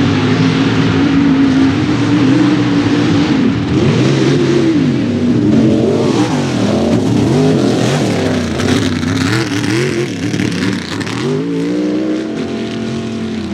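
A mega mud truck's engine revving hard. The pitch climbs at the start and holds high, then swings quickly up and down several times through the middle, and climbs again near the end.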